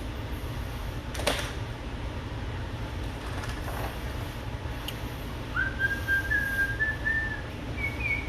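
A person whistling a short phrase of a few held notes, starting about halfway through, over a steady low hum; a single tap sounds about a second in.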